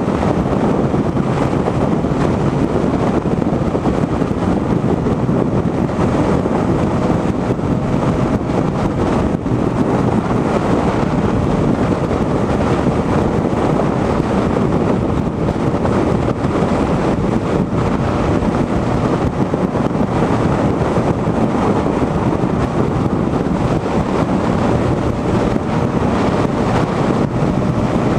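Yamaha MT motorcycle cruising at a steady highway speed, its engine and exhaust a steady drone under heavy wind noise on the microphone.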